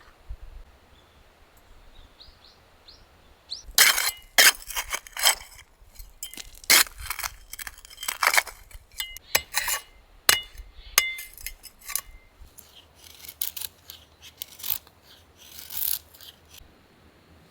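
Hard objects knocking and clinking together in irregular bursts, some strikes leaving short ringing notes, starting about four seconds in and going on for about twelve seconds.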